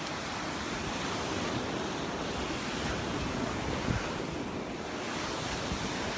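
Surf washing onto the beach, with wind buffeting the microphone and a brief low thump about four seconds in.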